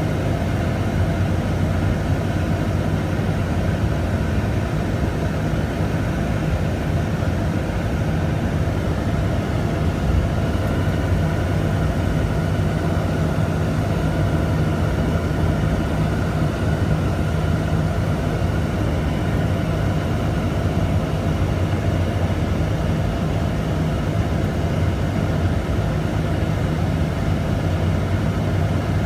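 Steady engine drone holding one constant pitch throughout, with a low hum under a wash of even noise.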